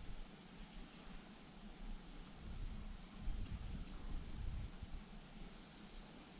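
A small bird's short, very high, thin chirp, repeated three times about one and a half to two seconds apart, over a low, uneven rumble.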